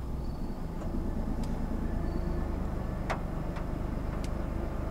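Steady low hum of a parked car's idling engine heard from inside the cabin, with a few faint small clicks.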